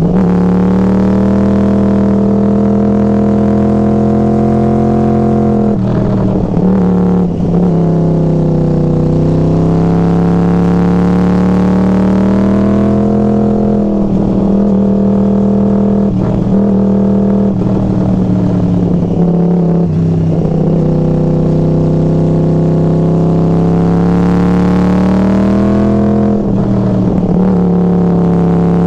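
Yamaha R1 crossplane inline-four engine running through Hotbodies MGP Growler carbon slip-on exhaust cans, holding a loud, steady engine note whose pitch rises and falls gently. A few brief rough breaks in the tone come about six seconds in, in the middle, and near the end.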